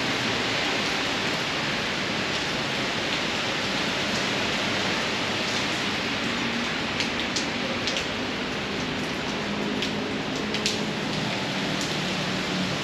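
Heavy rain pouring steadily, a dense even hiss, with a few sharper drip ticks about seven to eight seconds in and again near ten and a half seconds.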